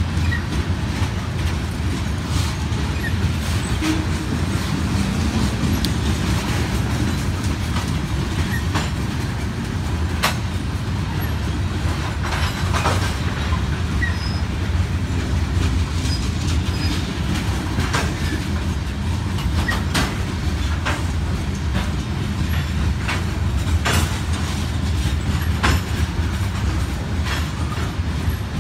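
Freight train of covered hopper cars rolling steadily past at close range: a continuous low rumble of wheels on rail, with sharp clicks and knocks now and then.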